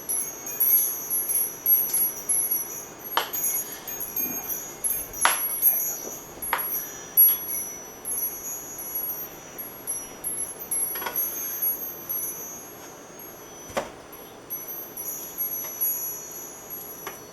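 Metal wind chimes ringing irregularly as the wind keeps striking them, with a few sharper clinks now and then.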